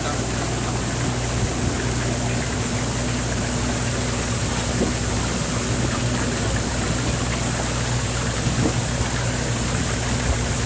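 Brush-type oyster shell washing machine running: a steady motor hum under a constant rush of spray water.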